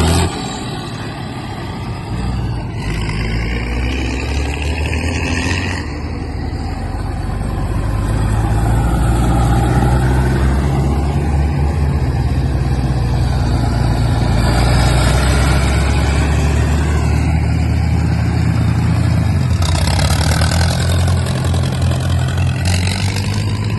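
Vintage farm tractor engine running with a steady low drone, its note dipping briefly near the end.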